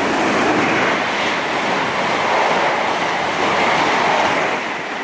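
Class 221 Super Voyager diesel train passing at speed: a loud, steady rush of wheels and air on the rails.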